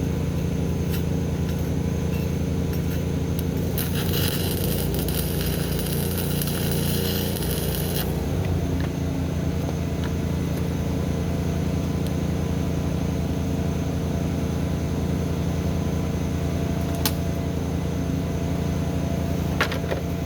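An engine running steadily. About four seconds in, a crackling hiss starts and lasts roughly four seconds, and a couple of sharp clicks follow later.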